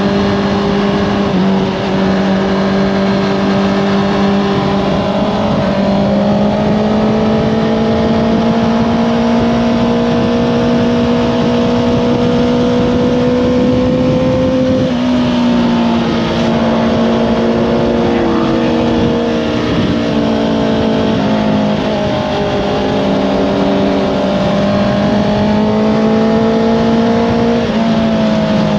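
Honda CBR650R inline-four engine through an Akrapovič exhaust, running hard under load. Its pitch climbs slowly, then drops suddenly about halfway through and again near the end, as with gear changes or rolling off the throttle.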